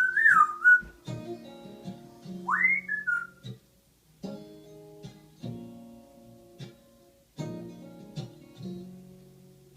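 Acoustic guitar strummed chord by chord, with a parrot whistling two short rising-and-falling phrases, one at the start and one about two and a half seconds in.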